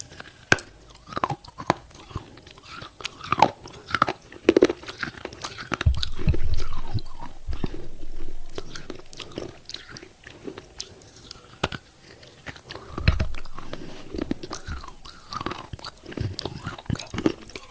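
Close-up biting and chewing of thick broken clay pot pieces: irregular sharp crunches and crackles as the fired clay breaks between the teeth. Two longer, heavier low rumbles come about six and thirteen seconds in.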